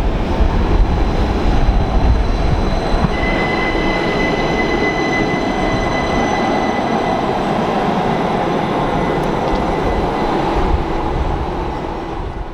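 Rhaetian Railway Bernina line train running with a steady rumble of wheels on rail, and a thin, high wheel squeal from about three seconds in until near ten seconds. The sound fades near the end.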